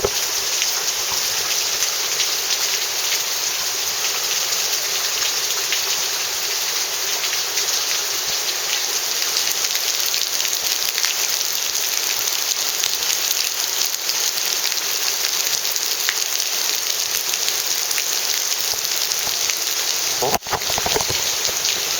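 Heavy rain falling steadily: a dense, even hiss full of small drop ticks, with a brief break about twenty seconds in.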